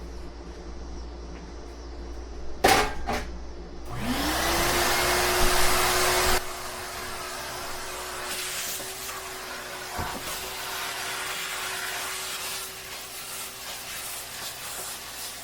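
A vacuum cleaner switched on after a couple of knocks, its motor spinning up to a steady hum. A loud rush of air for about two seconds, then it runs on more quietly.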